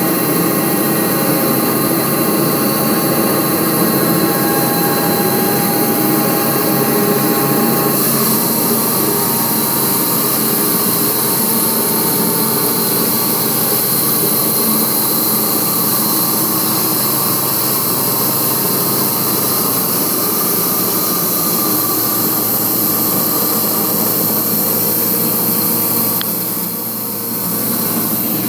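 Homemade log band sawmill running steadily. Its sound changes about eight seconds in and dips briefly near the end.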